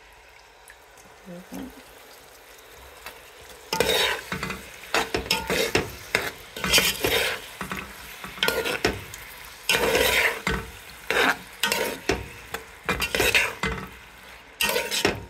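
Raw prawns going into a pot of hot frying vegetables about four seconds in, then sizzling as a spatula stirs them in repeated scraping strokes, roughly one a second.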